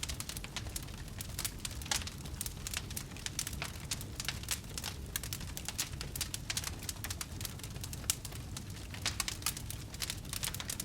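Wood fire burning in a fireplace, crackling with many irregular snaps and pops over a steady low rumble.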